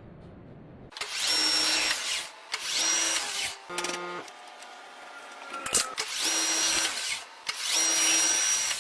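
Power tool running in four bursts of about a second each, in two pairs, with a short humming tone between the pairs.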